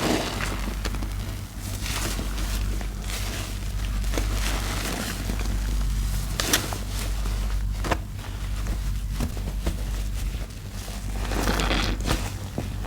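Soap-soaked sponges squeezed and squished by hand in thick laundry-detergent paste: wet squelching and crackling of lather in uneven swells, with a few sharp snaps, over a steady low hum.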